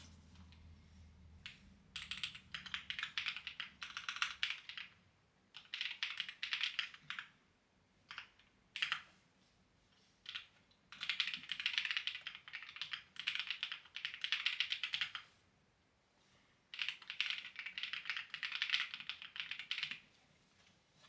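Clacky computer keyboard being typed on in several bursts of rapid keystrokes with short pauses between, the longest burst running about four seconds.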